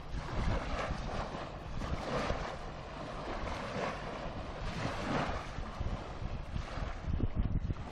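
Wind buffeting the microphone over the wash of waves on the shore, swelling and easing in irregular surges.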